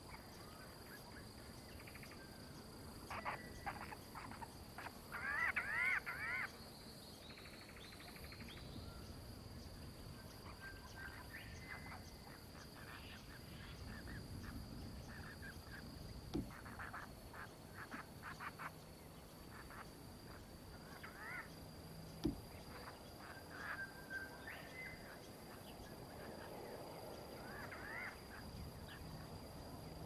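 Birds calling with scattered short chirps, loudest in a quick run of rising-and-falling notes about five seconds in, over a steady high-pitched insect drone. Two sharp knocks come in the second half.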